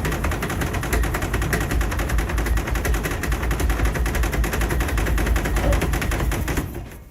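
A horse rapidly rubbing and tapping its lips and teeth against a door, making a fast, continuous rattling clatter that stops abruptly near the end. This is the kind of behaviour horses show when curious or seeking attention.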